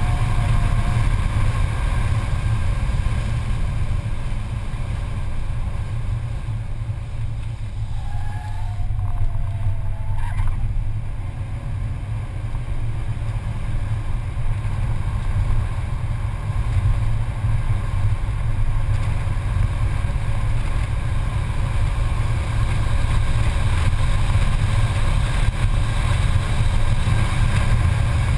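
Engine, wind and road noise inside the cabin of a Mercedes-Benz C280 being driven hard on a racetrack, easing off a little about a third of the way in and building again under acceleration near the end.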